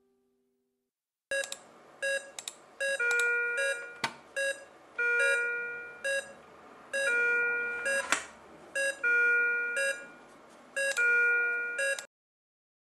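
Patient monitor alarm beeping: short beeps alternating with longer held tones at several pitches, repeating about every two seconds. It starts about a second in and cuts off suddenly near the end.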